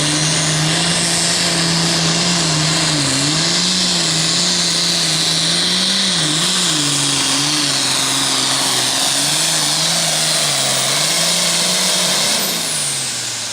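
Super farm pulling tractor's turbocharged diesel engine at full throttle hauling the sled, its note wavering up and down under load. Near the end the revs drop and the engine winds down with a falling high whistle as the pull ends.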